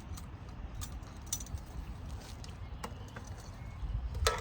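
Bird seed and its bag being handled: scattered small clicks and light rattling, with a louder, brief rustle near the end.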